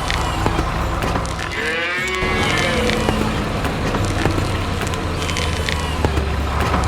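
A cow mooing once, an arching call about a second and a half in, over a steady low hum and scattered light clicks from a farm cartoon's soundtrack.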